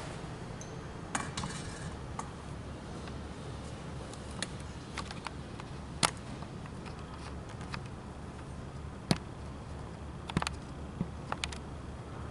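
Scattered light metallic clicks and clinks, a few louder ones about six and nine seconds in, over a steady low hum: tools or metal parts being handled in a workshop.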